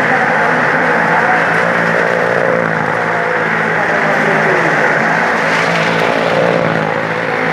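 A vehicle engine running steadily, a continuous drone with a noisy rush over it.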